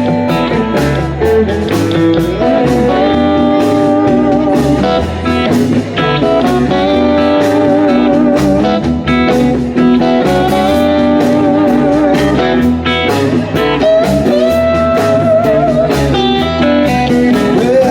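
Live blues band playing an instrumental passage between sung lines, a guitar carrying the lead over bass and drums, with held, wavering notes near the end.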